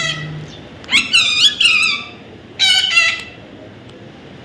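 Baby parrot giving high, squeaky calls in two bursts, about a second in and again near three seconds, each a quick run of notes that bend up and down.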